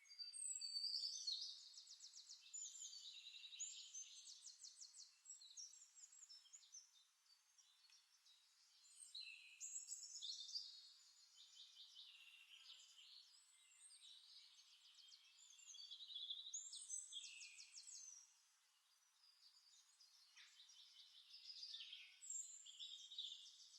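Faint songbirds singing from a recorded nature-sound track: short high-pitched phrases of rapidly repeated notes come every few seconds, with quiet gaps between them.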